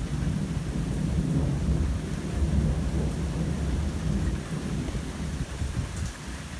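Thunder rumbling low and continuously over steady rain, easing a little near the end.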